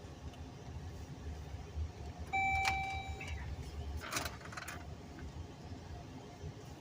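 A single electronic chime tone, about a second long, sounds about two seconds in over a steady low rumble, followed about a second later by a short hissing burst.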